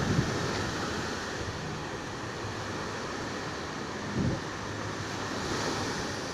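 Sea surf washing steadily on a beach, with wind on the microphone and a brief low gust about four seconds in.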